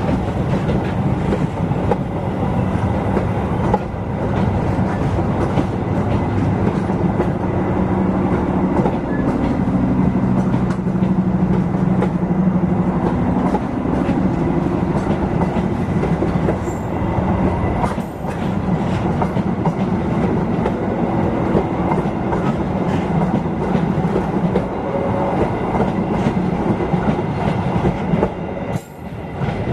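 Passenger train running on the rails: a steady rumble with wheels clattering over the rail joints. It dips briefly near the end.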